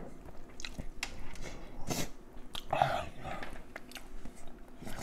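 A person chewing and biting food close to the microphone, with small wet clicks and smacks of the mouth.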